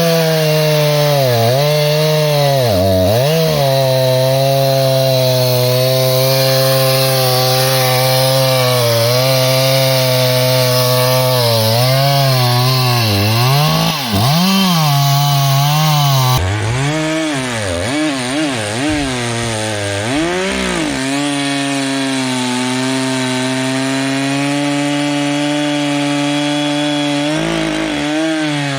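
Reciprocating saw (sawzall) cutting through a downed log, its motor running continuously and its pitch dipping and recovering again and again as the blade bogs down in the wood.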